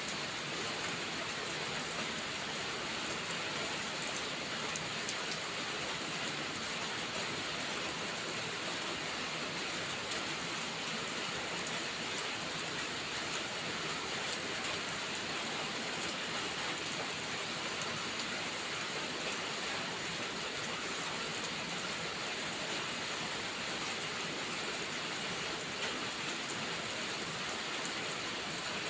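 Steady rain falling, an even, unbroken hiss of drops with no let-up or change in strength.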